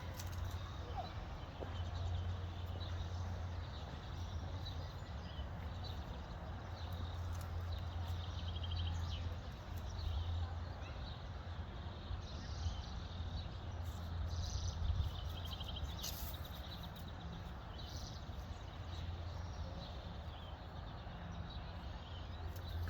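Small birds chirping and giving short, rapid trills now and then over a steady low rumble.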